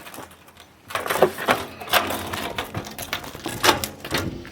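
A quick, irregular series of clicks and knocks, like objects being handled or rattled, starting about a second in.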